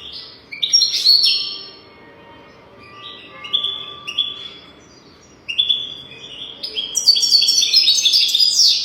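European goldfinch singing: short bursts of quick twittering and chirping notes separated by pauses, then a longer, denser phrase that is the loudest part, near the end.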